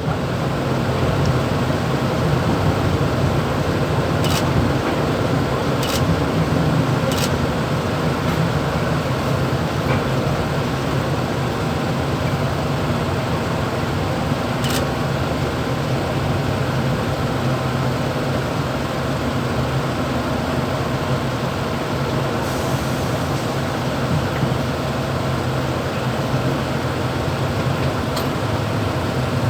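Steady rumble and hum inside the motorman's cab of a Mumbai local electric multiple-unit train, with a few sharp clicks and rattles scattered through it.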